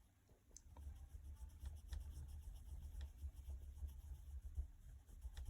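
Faint scratching of a drawing tool on paper as a shape is drawn, in short irregular strokes over a low steady hum.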